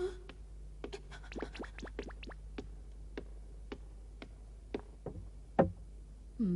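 A run of short, sharp clicks and taps at an irregular pace, bunched around the first two seconds, with a louder knock about five and a half seconds in, over a faint steady low hum.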